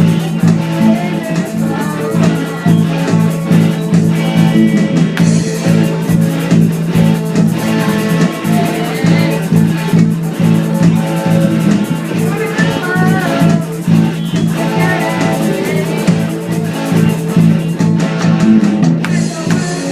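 Hard rock track with distorted electric guitar, bass and a drum kit, driving along over a steady low pedal note.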